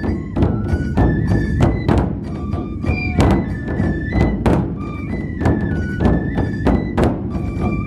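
Dou-gyoretsu festival music: large festival drums beaten in a steady rhythm, with a high flute melody and sharp strikes about twice a second.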